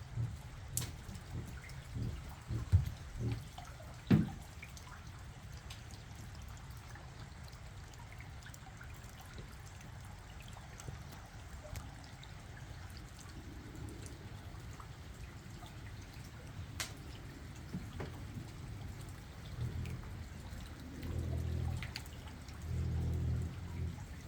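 Rain dripping and water trickling and pouring, with scattered sharp drops and a few heavier thuds in the first few seconds, and a low pulsing rumble near the end.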